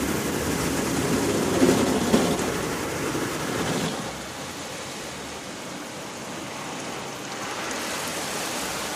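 Automatic car wash water jets spraying onto the car, heard from inside the cabin as a dense rain-like hiss; heavier for the first four seconds, then lighter.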